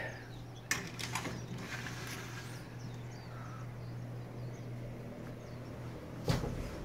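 Faint bird chirps over a steady low hum, with a few sharp clicks about a second in and a single louder knock near the end.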